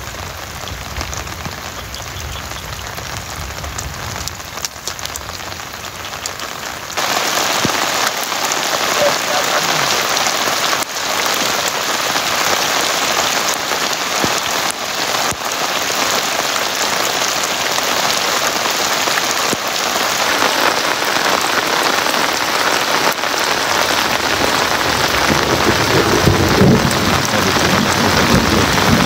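Heavy rain falling on a tarp shelter and the lake surface, with single drop hits standing out. The rain gets suddenly louder about seven seconds in.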